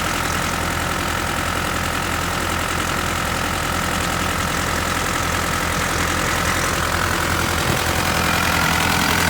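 Mitsubishi Pajero 3.2-litre turbo-diesel engine idling steadily, with a high whine held throughout that rises slightly near the end.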